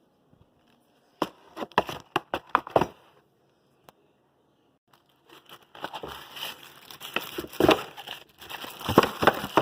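Packaging being handled, crinkling and rustling in two bouts: a short one about a second in, and a longer, louder one starting about halfway through.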